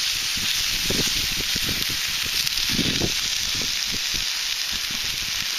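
Food sizzling on an iron griddle plate over a campfire: a steady high hiss with scattered low pops and crackles.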